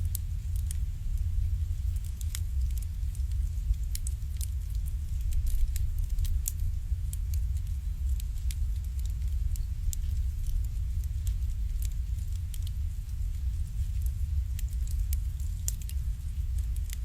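Wood fire crackling in an irori sunken hearth: irregular sharp pops and snaps, several a second, over a steady low rumble.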